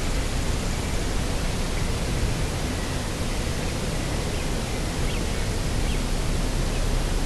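Steady wind noise with a deep, unbroken rumble. A few faint, short high chirps sound through it.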